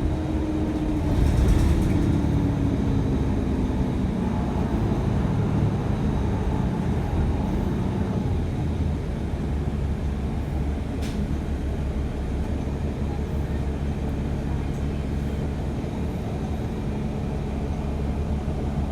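Steady low rumble of a city transit bus heard from inside while driving, with a tone sliding down in pitch in the first few seconds as it slows.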